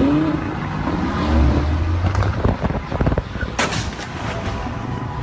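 Car sounds broken by a series of sharp impacts, like a crash. There is a cluster of knocks about two to three seconds in and the loudest bang about three and a half seconds in, over a low engine rumble.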